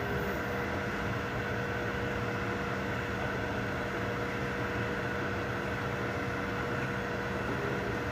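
Steady hum of 3D printers running, their cooling fans and motors holding a few constant tones over an even whirring noise.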